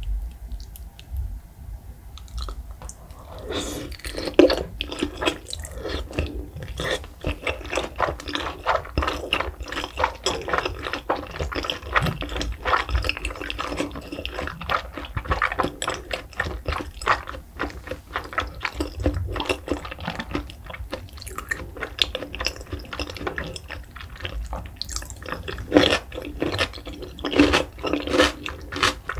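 Close-miked chewing of raw salmon sushi: wet smacking and squishing mouth sounds in quick, irregular clicks. They start about three seconds in and grow louder near the end.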